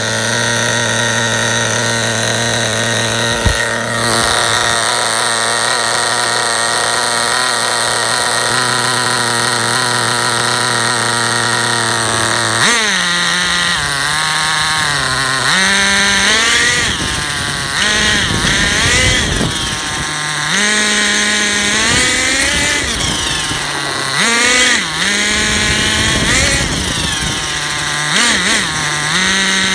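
Redcat Racing Vortex SS nitro RC car's small two-stroke glow engine idling steadily for about 13 seconds, then revving up and down in repeated throttle blips. A high-pitched screech runs over it; the owner does not know its cause.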